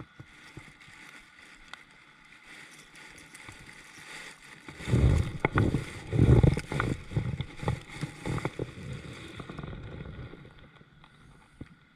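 Sounds of a fishing kayak on a river: faint water noise and small knocks, then about five seconds in a stretch of irregular low rumbling and knocking that is the loudest part, fading out near the end.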